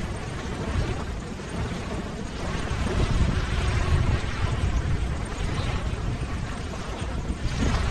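Ocean waves: a steady rushing wash of surf that swells louder about three to four seconds in.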